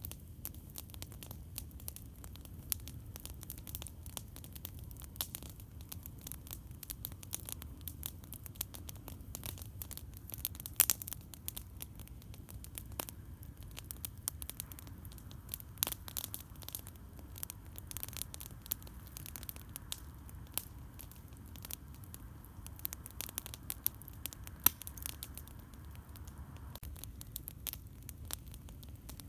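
Campfire crackling: irregular sharp pops and snaps, a few louder ones among many small ones, over a steady low rumble.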